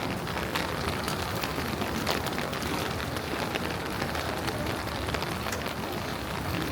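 Steady rain falling on hard street surfaces, an even hiss with many sharp drop ticks close by.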